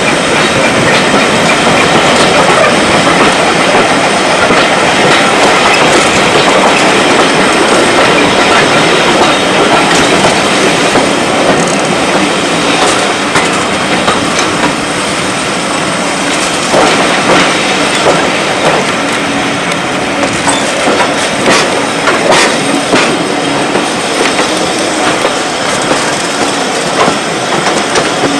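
Train running along the rails: a steady loud rumble of wheels on track, with sharp clicks and knocks growing more frequent about halfway through.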